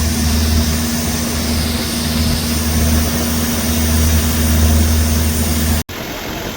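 Engine running at a steady speed with a loud, low drone. It breaks off abruptly near the end.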